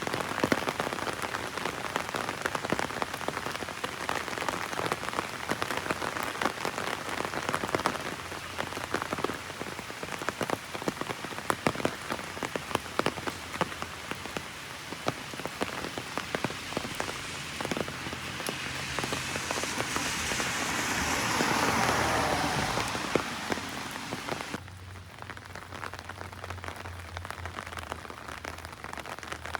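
Heavy rain drumming on an umbrella, a dense patter of drops. About two-thirds of the way through, a whoosh swells and fades; near the end the rain sound drops off abruptly, leaving a low steady hum.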